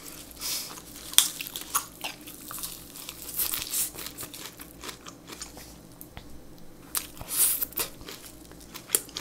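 Mouth-noise crunching and chewing of a crisp lettuce wrap (ssam), in irregular crackling bites.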